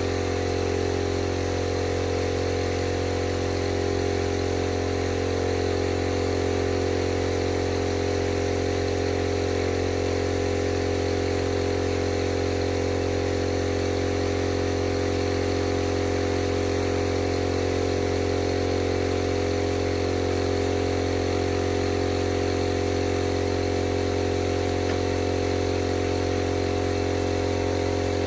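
Air compressor running steadily, supplying air to an HVLP paint spray gun: a constant mechanical drone that does not change.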